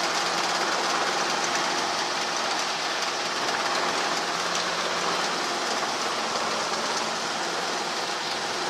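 Helicopter cabin noise: the engine and rotors running as a steady, even hiss-like drone with a few faint steady low tones underneath.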